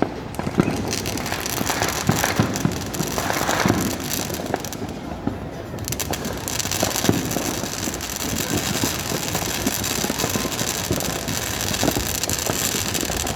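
Fireworks going off in a continuous barrage: dense crackling with many sharp pops in quick succession.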